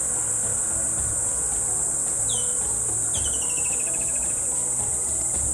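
Steady high-pitched drone of insects in the bush, with a bird calling over it: one short falling note about two seconds in, then a run of quick notes that step down in pitch over a second or two.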